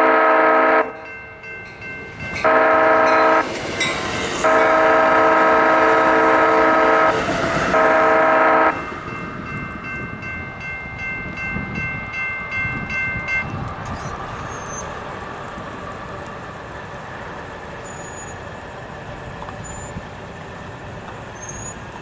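Amtrak passenger train's air horn sounding a multi-note chord for a grade crossing: the end of one blast, a short blast, a long blast and a final shorter blast. Then the train rumbles past with some wheel clatter and steady high ringing tones that stop about halfway through.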